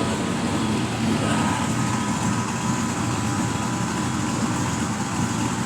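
1982 Chevrolet El Camino's V8 with a Chevrolet LT4 Hot Cam idling steadily, the cam's lope audible in the exhaust note. A healthy-running engine.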